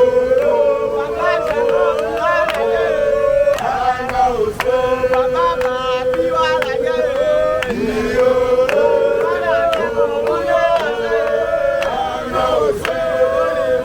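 Chanted singing: long held notes with sliding, ornamented pitch bends, more than one line sounding at once, over light clicking percussion.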